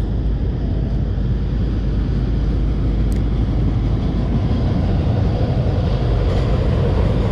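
Steady wind buffeting the camera microphone, a loud low rumble with a few faint ticks.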